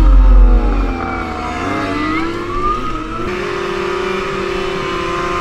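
A vehicle engine revving, its pitch dropping, rising and falling again, then holding steady about three seconds in, with a loud low thump at the start.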